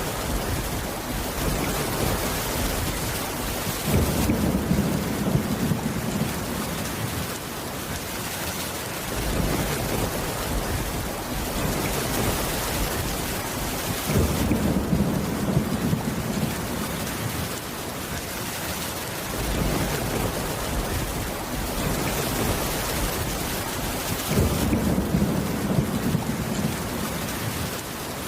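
Steady heavy rain with low rolling thunder. The thunder rumbles three times, each roll lasting about five seconds, starting roughly ten seconds apart.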